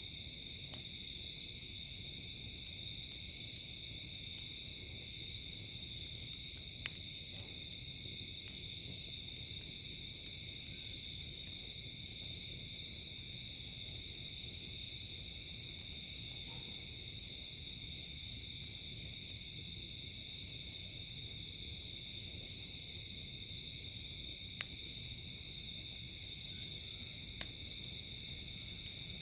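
Night insects, crickets or katydids, chirring steadily in a dense chorus. A higher pulsing call repeats about every six seconds. A campfire gives a few sharp single pops, the loudest about a quarter of the way in and two more near the end.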